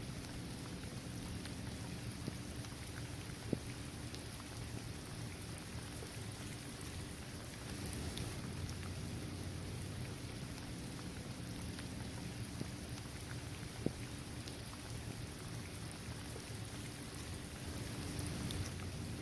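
Steady rain falling on a basketball court, trees and grass, with a low rumble underneath and a few single drops striking close by, sharpest about three and a half seconds in and again near fourteen seconds.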